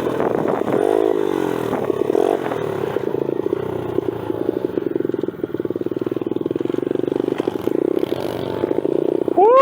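Single-cylinder four-stroke pit bike engines running on the track, the revs rising and falling as the throttle is worked. Near the end one bike revs up sharply and straight back down, the loudest moment.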